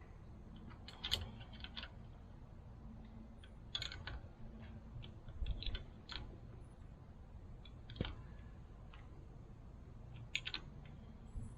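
Hand tools working on metal while a hydraulic valve is bolted onto a mini excavator: irregular sharp clicks, clinks and knocks, a dozen or so, the sharpest about a second in and at around eight seconds, over a faint steady hum.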